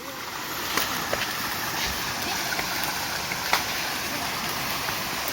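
Steady rush of flowing water from a rocky mountain stream, with a few sharp knocks and clicks over it.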